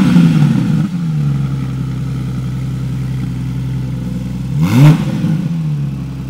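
2022 Porsche 911 GT3's naturally aspirated 4.0-litre flat-six through a Fabspeed aftermarket exhaust. It drops back from a rev to a steady idle at the start, then gives one quick throttle blip about five seconds in that climbs and falls back to idle.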